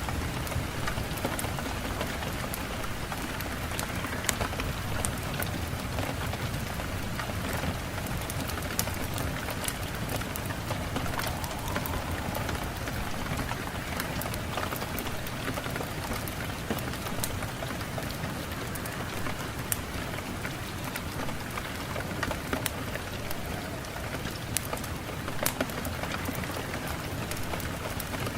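Steady rain falling, with many sharp drops ticking on a hard surface through the even hiss.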